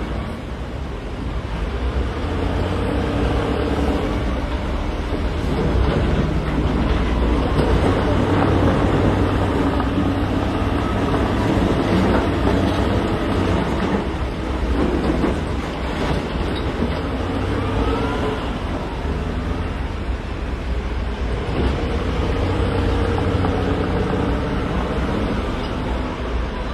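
Heavy diesel earthmoving machinery working, the engine running under load, with scattered knocks and clatter.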